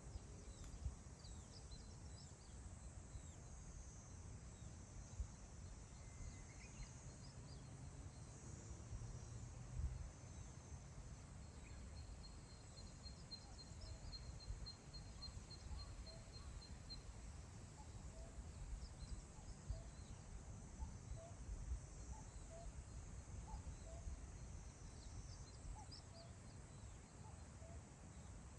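Wind blowing across open grassland, rumbling on the microphone in gusts, with faint distant wild birds calling: a high trill about twelve seconds in that lasts several seconds, and soft short notes repeating through the second half.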